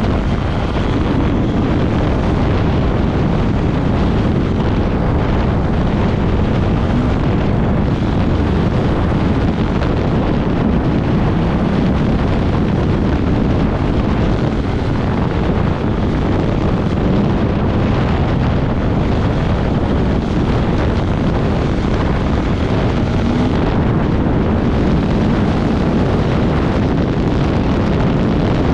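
Off-road motorcycle running at speed, its engine buried under heavy wind buffeting on the microphone, with the engine note shifting slightly now and then.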